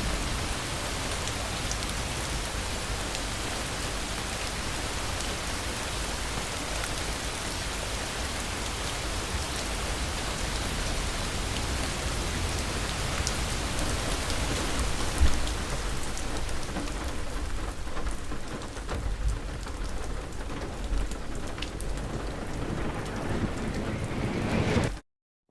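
Heavy rain pouring steadily with low rolling thunder; a single sharp thunder jolt comes about halfway through. In the last few seconds the hiss of the rain dims under more rumbling, then the sound cuts out abruptly for a moment at the very end.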